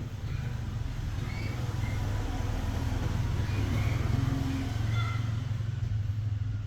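A motor vehicle's engine running with a steady low rumble, swelling slightly near the middle.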